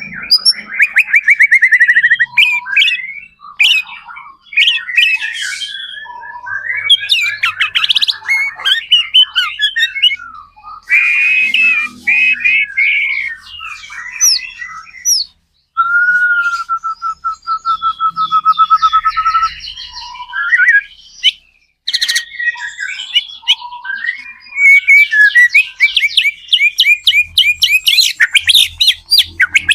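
White-rumped shama singing a long, varied song of fast trills and whistled sweeping phrases, with a few brief pauses. About halfway through comes a level, even trill of a few seconds, and near the end a run of fast repeated notes.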